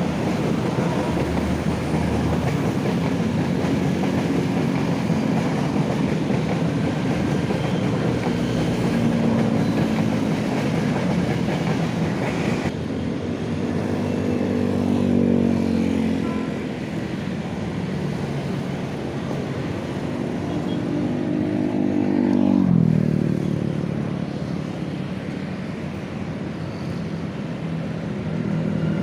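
An electric commuter train rumbling past. After a break about 13 s in come motor whines that rise and fall in pitch as vehicles pass, one dropping sharply in pitch about 23 s in.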